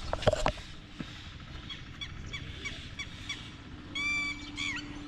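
Birds calling: a run of short repeated chirps, about three a second, then a louder honking call about four seconds in and a shorter one after it. A brief clatter comes right at the start.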